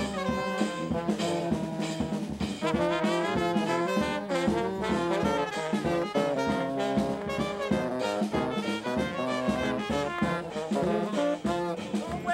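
Jazz brass band music, with trombone and trumpet lines over a steady beat.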